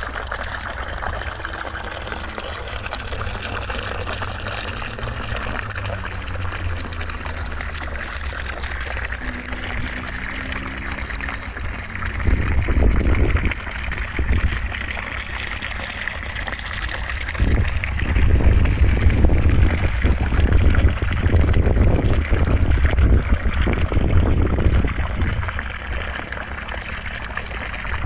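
Steady rushing noise of running water used as white noise, with deeper, louder surges about twelve seconds in and again from about seventeen to twenty-five seconds.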